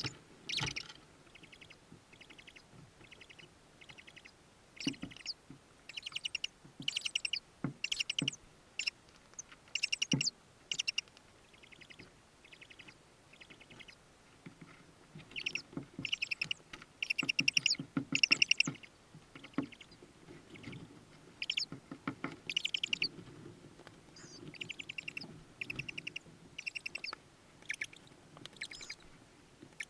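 Tawny owl chicks in the nest box giving repeated short, raspy begging calls in bouts, loudest a little past the middle, with scratching and shuffling as they move about.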